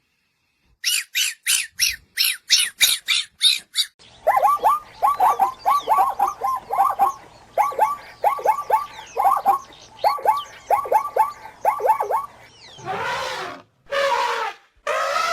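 A series of animal calls from different animals, one after another. First comes a run of about ten short, high-pitched calls. Then a long stretch of rapid chattering calls, and near the end two or three longer, hoarse calls, the loudest in the stretch.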